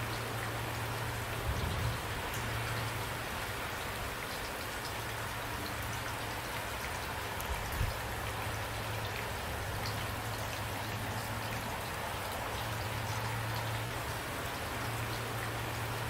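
Steady rain falling, with a low steady hum beneath it and two brief louder knocks, about one and a half seconds in and again near the middle.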